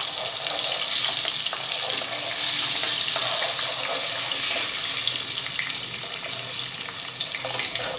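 Wet raw onion paste sizzling loudly in hot oil as it is stirred with a spatula in a nonstick kadhai: a dense, steady hiss with small scrapes of the spatula, easing a little toward the end.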